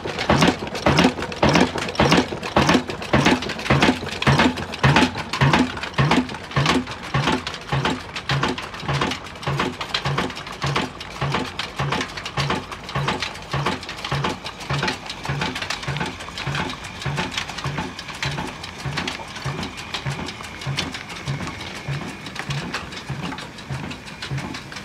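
Old Ruston Hornsby stationary diesel engine running at slow speed, each firing stroke a separate beat, about two a second, growing gradually quieter.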